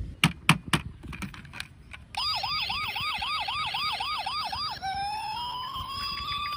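A few sharp clicks, then a toy vehicle's electronic siren starts about two seconds in. It gives a fast yelp, rising and falling about three times a second, then changes to a slow wail that rises and begins to fall near the end.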